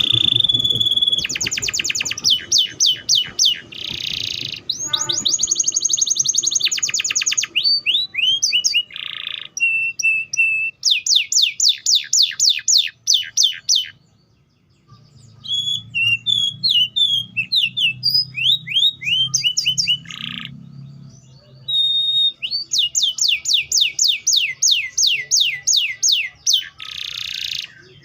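Domestic canary singing a long, varied song of fast trills, each a run of rapidly repeated notes, with short whistled notes and rolls between them. There is a brief pause about halfway through.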